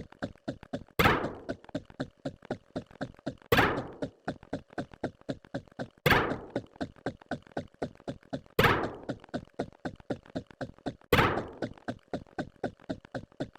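Repeating sound effect: five heavy thunks, one about every two and a half seconds, each with a short fading ring. A rapid run of light ticks, about six a second, continues between them.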